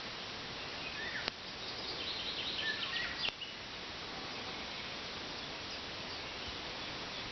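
Outdoor woodland ambience: a steady background hiss with a few short bird chirps in the first half.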